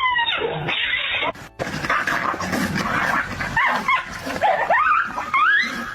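A dog whining, with a run of short rising whines and yips in the last couple of seconds.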